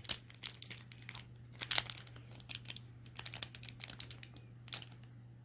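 Foil Pokémon booster pack being handled and pulled at to open it, giving a run of irregular soft crinkles and crackles.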